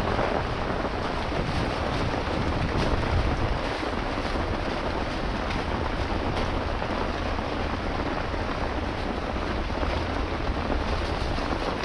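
Heavy rain falling steadily, with wind buffeting the microphone in a low rumble.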